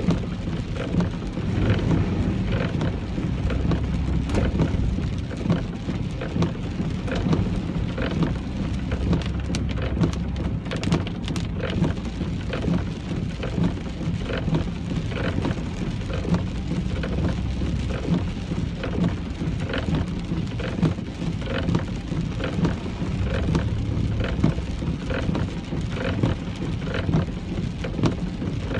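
Rain falling on a moving car, many sharp drop hits over a steady low rumble of the car on the road.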